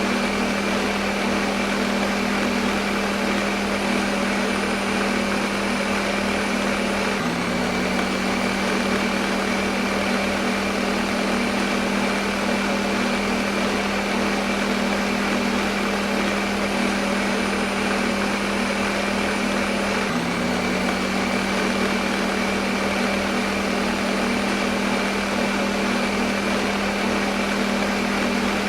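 Electric kitchen blender motor running steadily: a constant hum over a loud whirring hiss. The hum briefly dips and resumes twice, about 7 and 20 seconds in.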